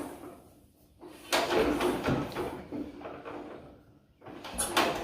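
Hand-starting a cold John Deere A by pulling its flywheel over: two separate pulls about three seconds apart, each a sudden burst of mechanical noise lasting about a second, with no steady running between them.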